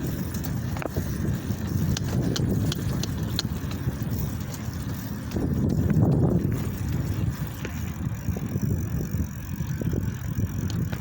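Riding noise from a bicycle on the move: a steady low rumbling rush, with scattered light clicks and rattles in the first few seconds.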